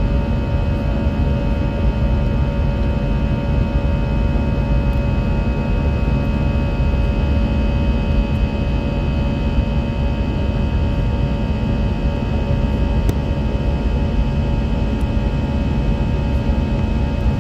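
Airbus A320 cabin noise during takeoff: a steady jet-engine and airflow roar with a deep rumble and several held whining tones.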